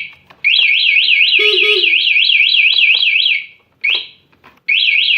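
Aftermarket motorcycle anti-theft alarm siren warbling in rapid rising-and-falling sweeps, about four or five a second. One long burst of about three seconds is followed by short bursts after a brief gap. The alarm is armed and has been tripped by tampering; the ignition is on but starting is blocked.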